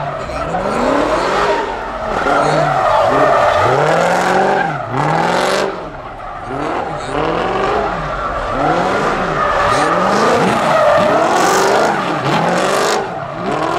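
Dodge Challenger Hellcat's supercharged V8 revving up and down over and over, about once a second, while the rear tyres spin and squeal through donuts.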